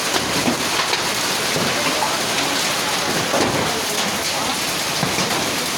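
Heavy rain pouring down steadily, a dense even hiss with scattered individual drops splashing.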